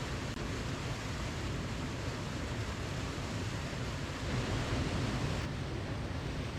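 Steady rushing of a waterfall, an even roar of falling water that swells a little for about a second past the middle.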